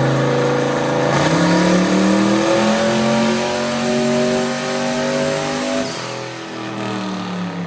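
Turbocharged small-block Ford V8 in a pickup making a dyno pull under boost: the engine holds steady for about a second, then climbs slowly in revs under load for about five seconds, and is let off about six seconds in, the revs falling away.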